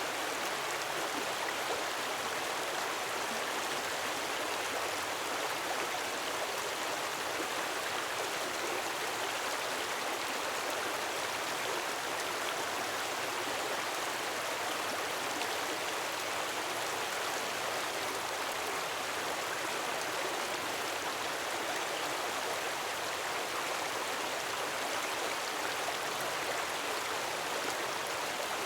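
A gentle waterfall splashing steadily, an even rushing of falling water with no swells or breaks.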